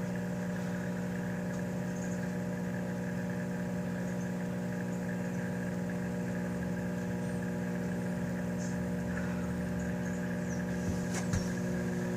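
Microwave oven running with a steady hum, with a few faint crackles near the end as the toy car inside heats.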